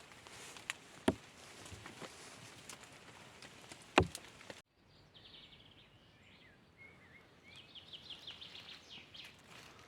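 Two sharp knocks over a steady outdoor hiss, the second and louder one about four seconds in. After an abrupt cut, a forest bird sings in quick series of repeated high notes, with a few short whistled slurs between.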